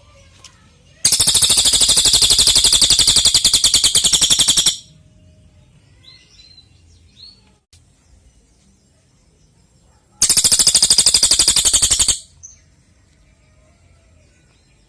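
Cililin songbird giving two loud, very rapid trills, the first about four seconds long and the second, some five seconds later, about two seconds long, with faint chirps between.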